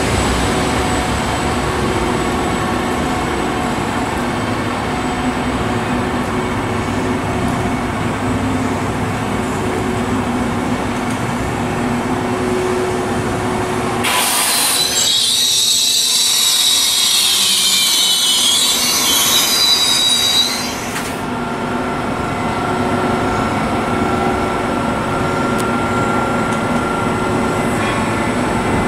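A train running past with a steady rumble. About halfway through, high-pitched wavering wheel squeal takes over for several seconds and the low rumble drops away, then the rumble returns.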